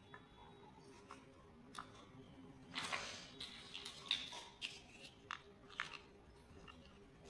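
Small plastic building blocks being handled and pressed together: a series of light clicks and taps, with a brief rustling scrape about three seconds in.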